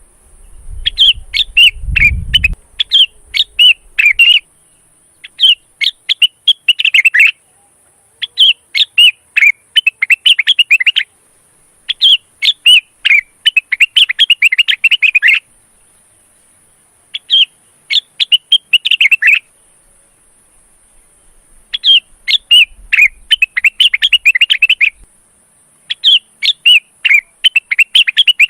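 Male cucak wilis (rengganis) leafbird singing in breeding condition: repeated bursts of quick, chattering chirps, each lasting a second or three, separated by short pauses. A steady high hiss runs underneath.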